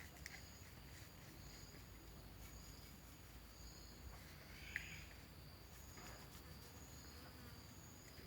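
Faint, high-pitched insect chirping in two alternating tones that pulse on and off steadily, with one small click about five seconds in.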